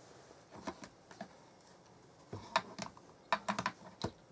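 Light clicks and taps of card pieces and small tools being handled on a craft table, coming irregularly in small clusters, busiest in the second half.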